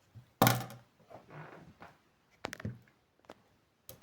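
Cardboard parcel box being handled and worked open, with scissors to hand: a loud knock about half a second in, then softer scraping and a few sharp clicks.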